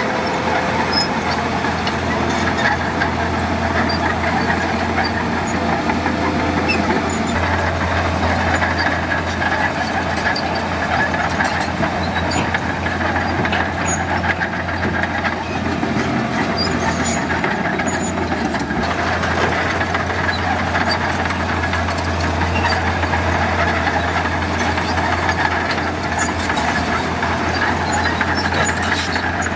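Heavy diesel construction machinery running steadily under load, a continuous deep engine drone with scattered small clanks.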